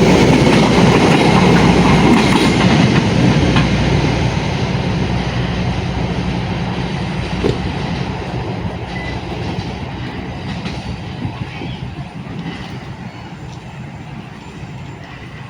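Train running past on the rails, wheels clicking over the rail joints, growing steadily fainter as it moves away.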